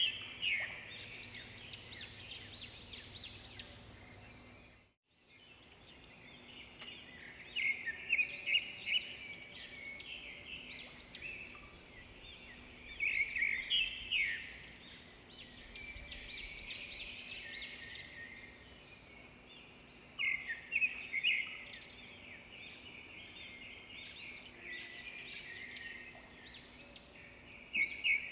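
Birds chirping and calling in dense, busy bursts that come back every six or seven seconds over a steady outdoor hiss. There is a brief dead gap about five seconds in.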